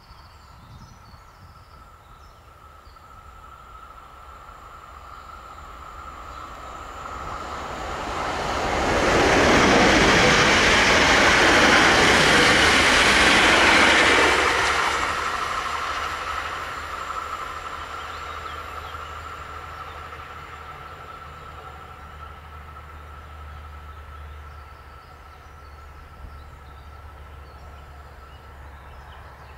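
Electric train passing at speed. The rolling noise builds over several seconds, is loudest for about five seconds, then fades away.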